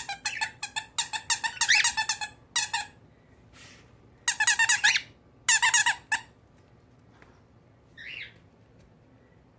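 Squeaky rubber giraffe toys squeaking in a series of high, pitched squeaks: a quick run of them at first, then a few short bursts, and one faint squeak near the end.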